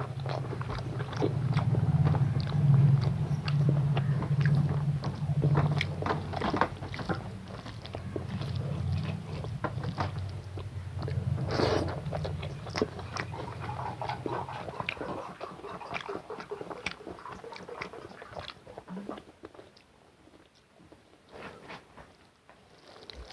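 A person chewing and eating a meal of rice with egg curry and dal, close to the microphone: wet smacking and clicking mouth sounds. A low steady hum runs underneath and stops about two-thirds of the way through, and the eating sounds get quieter near the end.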